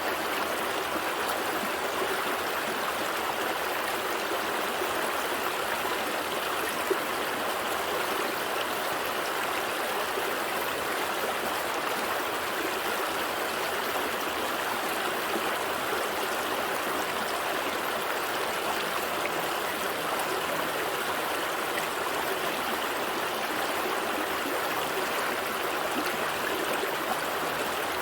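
A gentle stream flowing steadily, with an even, unbroken rush of water.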